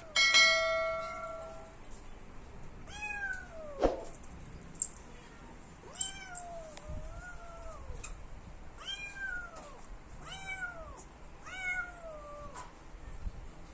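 Kitten meowing about five times, each call rising and falling in pitch, as it asks for a door to be opened. A sudden ringing tone at the very start, the loudest sound here, fades over about a second and a half, and there is a single knock about four seconds in.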